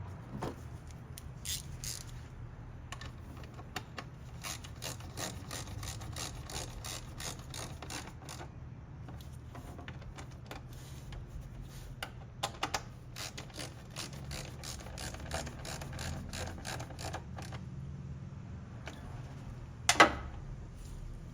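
Hand ratchet clicking in quick runs while fasteners go back on the engine's air intake, with one sharp knock near the end.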